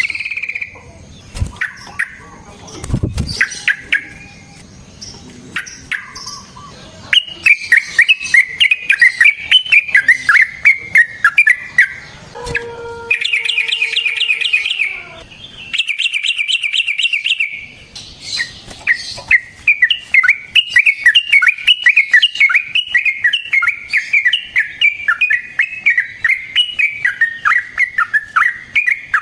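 Yellow-vented bulbul (trucukan) singing long, rapid runs of bubbling, chattering notes, with two buzzy rattling stretches midway, preceded by a few scattered clicks and short calls.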